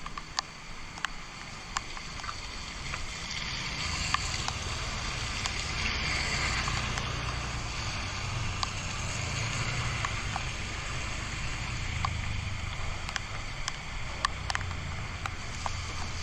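Motorcycle riding through floodwater: a steady low engine hum under water swishing and splashing around the wheels, with scattered sharp ticks. The engine and water get louder about three to four seconds in.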